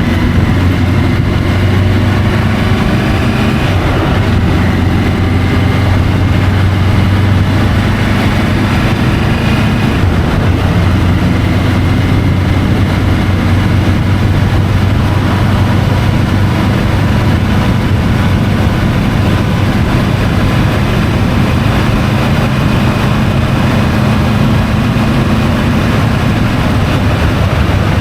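Triumph Tiger 850 Sport's three-cylinder engine running while riding, its pitch shifting a little in the first few seconds, then holding steady.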